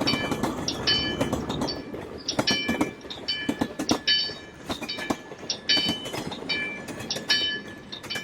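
Railroad crossing signal bell ringing in short repeated strokes, about one a second, over the rumble and clatter of a passing train.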